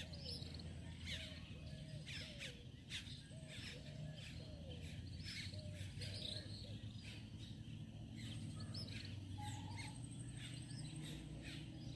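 Faint birdsong: a short arched call repeated roughly every half second for the first half, with scattered higher chirps over it and a low steady background hum.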